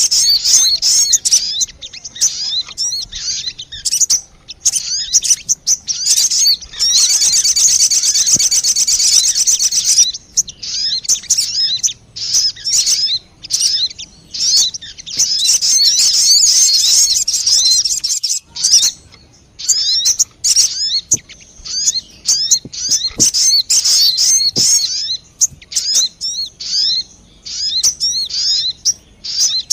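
Recorded song of the sogon bird played as a lure (pikat) call: rapid, high-pitched chirps and twitters in runs broken by short pauses, with a denser, buzzier stretch about seven to ten seconds in.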